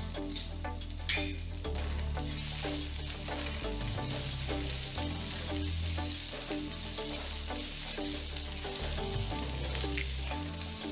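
Diced boiled potatoes, peanuts and cashews sizzling in hot oil in a nonstick frying pan while a wooden spatula stirs and tosses them, the sizzle growing louder about two seconds in. Background music with a steady repeating pattern of notes plays throughout.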